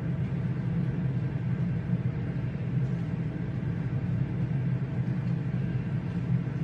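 Steady low hum of library reading-room background noise, an even drone with no clear events.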